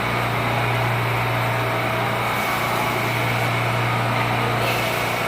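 Steady hum of a stationary New York subway car's HVAC and onboard equipment, a constant low drone with no change in pitch.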